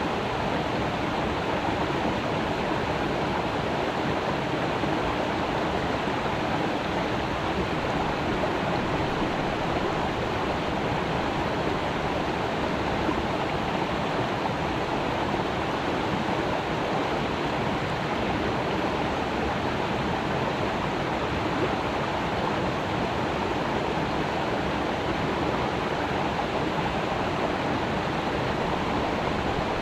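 Creek water rushing and burbling over rocks, a steady even flow that never changes.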